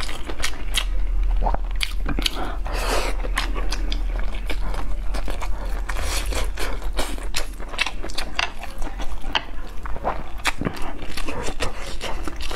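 Close-miked chewing of tender braised meat: irregular wet mouth clicks and lip smacks, one after another.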